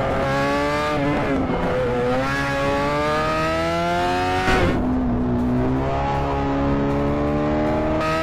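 Motorcycle engine accelerating through the gears, its pitch climbing steadily and dropping back at each upshift, several times over; a brief louder burst of noise about halfway through.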